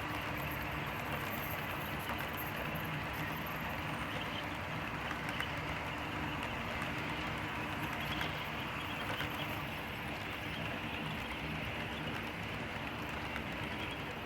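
HO scale model train running along the track: a steady mechanical rumble of the wheels and the locomotives' electric motors, with occasional faint clicks. The locomotives' sound decoders are muted, so no engine sound is heard.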